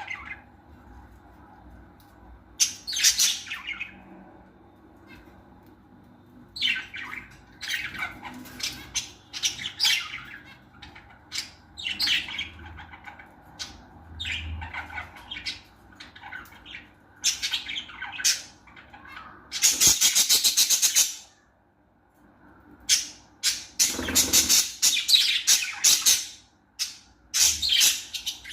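Lovebirds chirping and squawking in short, shrill calls, with a loud dense burst of screeching about twenty seconds in and another busy run of calls a few seconds later.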